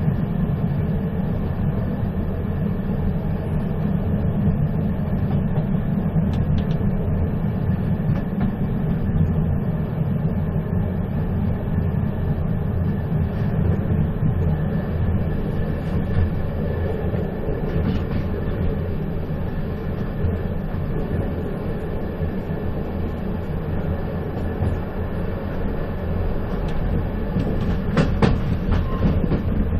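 A moving train, its wheels rumbling steadily on the rails, with a few sharp clicks near the end.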